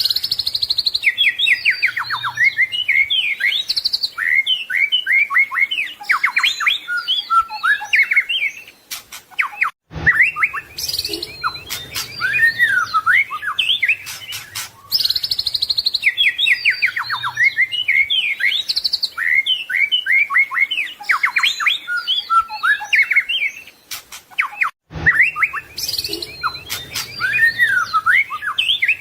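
White-rumped shama (murai batu) singing a rich, varied song of clear whistles, slurred notes and rapid trills. The song breaks off twice, about ten and twenty-five seconds in, and the same passage starts over, as a looped recording does.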